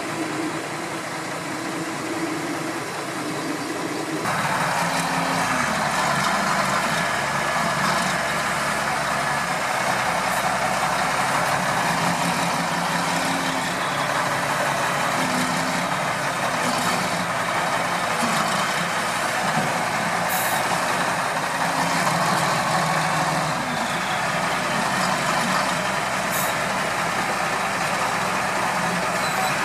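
Heavy diesel machinery running steadily with a dense mechanical noise. The sound changes abruptly about four seconds in and becomes somewhat louder.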